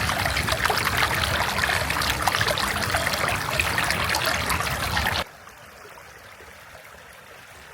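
Loud, dense splashing of water that cuts off abruptly about five seconds in, leaving a fainter steady hiss.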